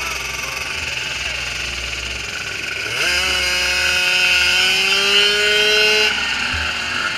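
Small micro-class ATV engines running, with fainter revs rising and falling. About three seconds in, one engine revs up sharply and holds high, climbing slightly, then drops back just after six seconds.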